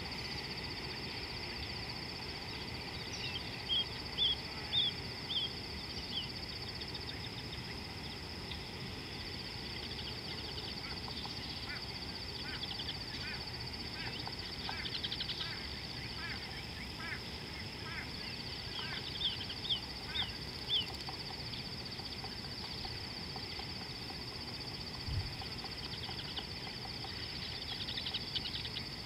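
Birds calling in quick runs of short, high chirping notes, a few seconds in and again around twenty seconds in, over a steady high-pitched drone.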